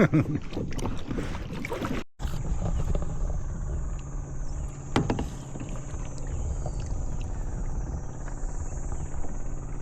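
A kayak out on the water: a steady low rumble with one sharp click about five seconds in. The sound drops out briefly about two seconds in.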